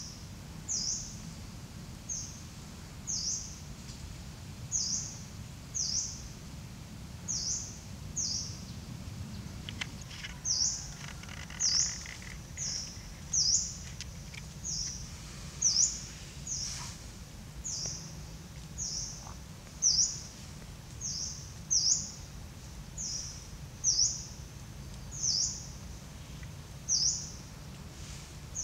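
A bird repeating a short, high chirp about once a second, each call sliding down in pitch, with some calls coming in quick pairs.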